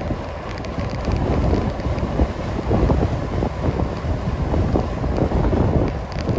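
Wind buffeting the microphone of a moving bicycle, a loud, gusty low rumble.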